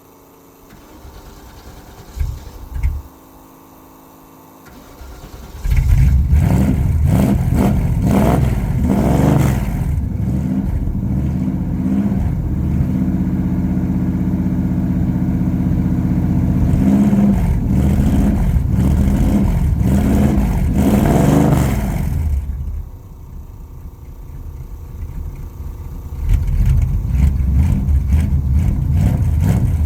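A 1971 car's carbureted engine cold-starting with no choke, catching easily about six seconds in. It then runs loud with repeated blips of revving, drops to a quieter idle for a few seconds near the end, then picks up again.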